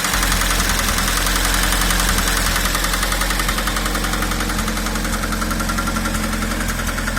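Engine idling with a rapid, regular knock. The camshaft has been replaced and the valves adjusted without curing it, and the owner suspects a piston pin or a worn piston rocking in the cylinder.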